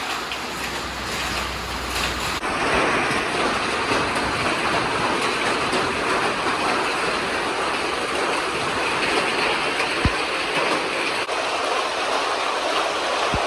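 Steady rushing noise of a storm's wind-driven rain and hail, with a couple of brief low thumps later on. The sound changes abruptly about two seconds in.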